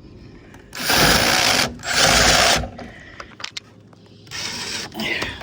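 Power drill driving a self-tapping screw into a van's side step, run in two bursts of about a second each, then two shorter, fainter bursts near the end as the screw is tightened as far as it will go.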